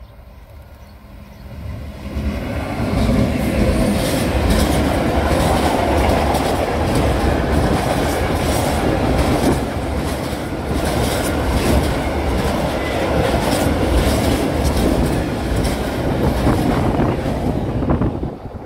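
Diesel-hauled freight train of tank wagons passing close by. The sound rises about two seconds in as the locomotive arrives, then the wagon wheels clatter over the rail joints in a steady run of clicks. It drops sharply near the end as the last wagon passes.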